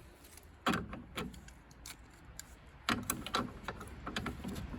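Parts of a gas combi boiler being handled during dismantling: a couple of knocks about a second in, then an irregular run of metallic clicks and clatters from about three seconds.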